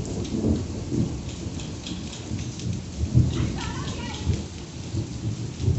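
Rain falling steadily, with irregular low rumbling thumps of wind buffeting the microphone while cycling.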